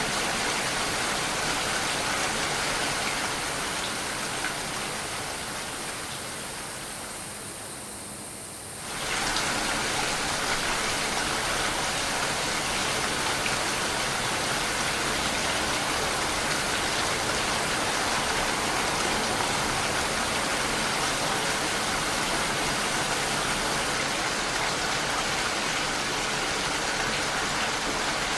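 Steady rain falling, an even hiss of drops. It fades and dulls from about three seconds in, then comes back full suddenly about nine seconds in.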